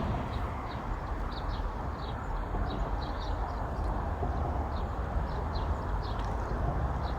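Steady low outdoor rumble with a small bird chirping over it, two or three short high chirps a second.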